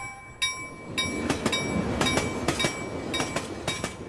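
A train rolling past, its wheels clacking over the rails at an uneven pace, with a bell ringing over the rumble.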